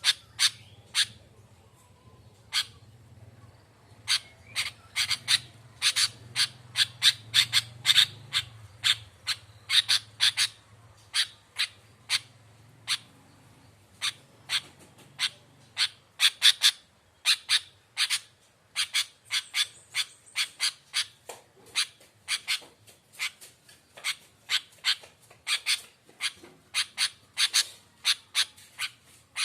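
Sooty-headed bulbuls (kutilang) calling in a rapid run of short, sharp chattering chips, about three a second, as used on a lure recording to set quiet bulbuls calling. A faint low hum sits underneath for the first half.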